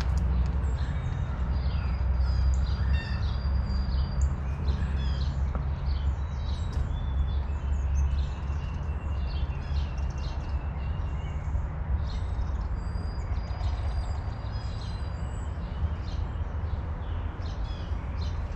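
Small wild birds chirping and calling with many short chirps and a few held whistled notes, over a steady low rumble.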